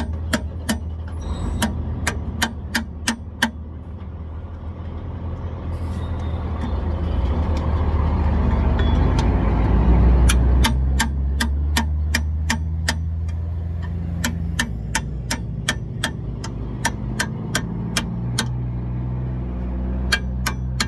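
Ratchet wrench clicking in slow, even strokes, about three clicks a second, as the bearing press is wound in to push out a seized rear wheel bearing; the clicking stops for several seconds in the middle. Steady traffic rumble underneath swells to a vehicle passing about ten seconds in.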